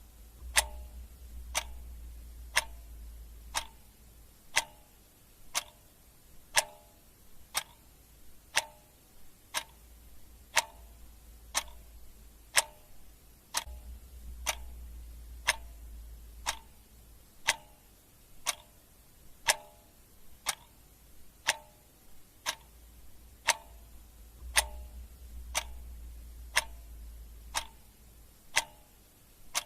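Clock ticking steadily, about one sharp tick a second, each with a short metallic ring. A faint low hum swells and fades beneath it.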